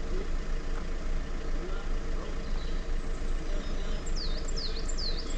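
Off-road vehicle's engine idling steadily, heard from inside the cab. Near the end a bird gives four high whistles, each sliding down in pitch.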